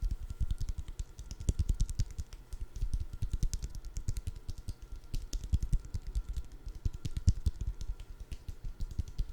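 Rapid, irregular tapping and clicking on food items, many small taps a second with deep thumps among them.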